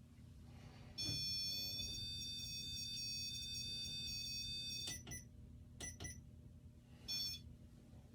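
Electronic tone held for about four seconds, starting a second in, followed by several short beeps.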